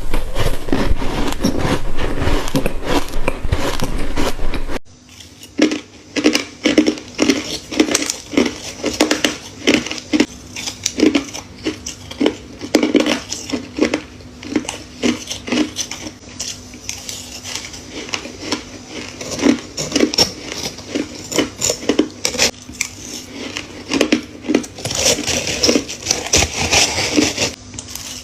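Ice being bitten and crunched close to the microphone. For about the first five seconds the crunching is dense and loud; then it cuts to softer separate crunches, roughly one or two a second, over a faint steady hum. The crunching grows denser again near the end.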